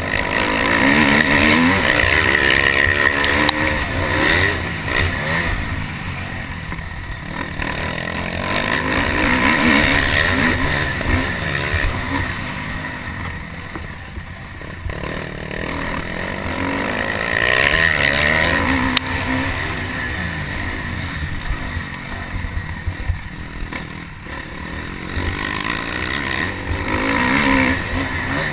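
Motocross dirt bike engine revving hard and easing off again and again as the throttle opens and shuts, its pitch rising and falling with each surge.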